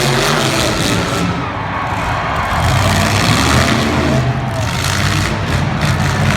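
Demolition derby cars' engines running and revving loudly and without a break.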